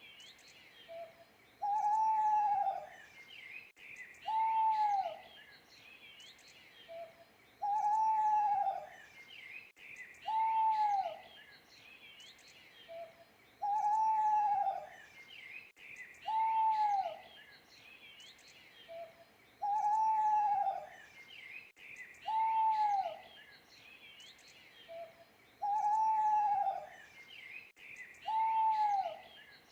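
Owl hooting: one arched call about a second long, repeated every three seconds or so, with a short faint note between calls. Smaller birds chirp faintly behind it.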